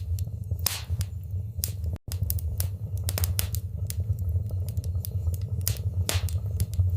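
Wood fire burning in a fireplace: a steady low rumble of flames with frequent sharp crackles and a few louder pops. The sound cuts out for an instant about two seconds in.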